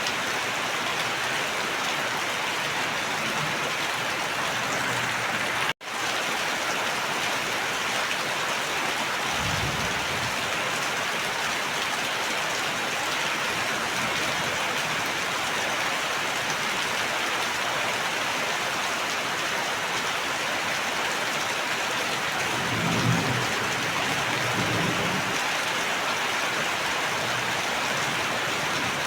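Steady heavy rain falling, an even hiss of drops, with low rumbles of thunder about ten seconds in and again for a few seconds past the twenty-second mark. The sound cuts out for an instant about six seconds in.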